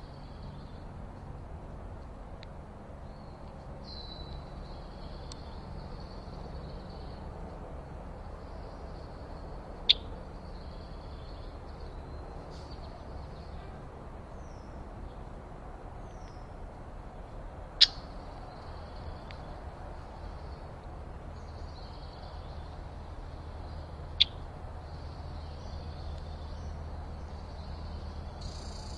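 Backyard birds calling faintly, many short high chirps and calls scattered throughout, over a faint low hum. Three sharp clicks stand out well above the calls, spaced several seconds apart.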